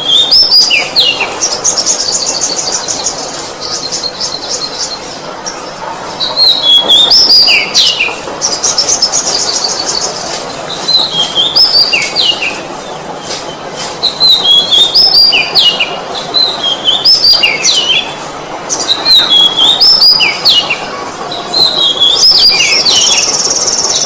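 Oriental magpie-robin (kacer) singing loudly. A short zigzag whistled phrase comes again and again, mixed with fast, high, buzzy trills near the start, in the middle and near the end.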